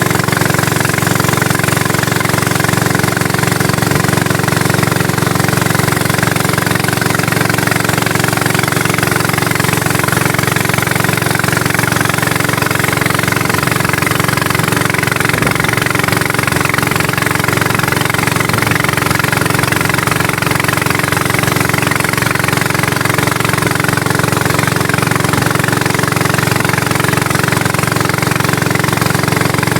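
A small engine running steadily at an unchanging speed, with a constant low hum.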